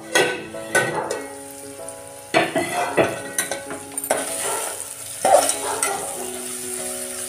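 A steel plate used as a lid clinks as it is lifted off an aluminium pot. Then a spatula scrapes around the pot, stirring onion-tomato masala that sizzles as it fries in oil.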